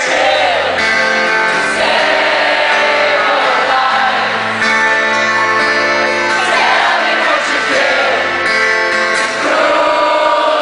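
Live band music heard from the audience: guitar and held chords that change every second or two, under a singing voice.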